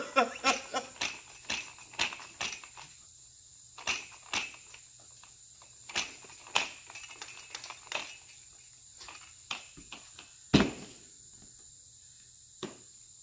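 Plastic container lid being worked open on a bucket of freshly mixed, heat-producing truck wash concentrate: a run of sharp clicks and snaps, about two a second at first and then sparser, with one louder knock about ten and a half seconds in. No pressure has built up inside.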